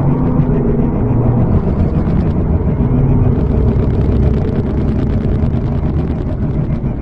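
Loud, deep rumbling drone with held low tones that shift in pitch, of the kind circulated as the mysterious "strange sounds" heard in the sky.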